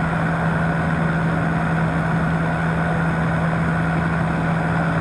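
Powered parachute's engine and pusher propeller running steadily in flight, a constant drone with one strong low hum that holds the same pitch throughout.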